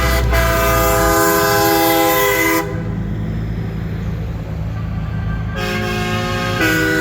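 A truck's multi-chime air horn blasting a loud, steady chord for about two and a half seconds, then a pause with only low engine rumble, then the horn sounding again twice in short blasts near the end.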